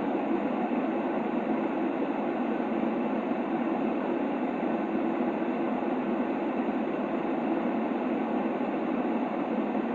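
Steady, unchanging white noise for soothing a baby. It is shaped toward a soft, low-mid rush rather than a bright hiss, with no tones or rhythm in it.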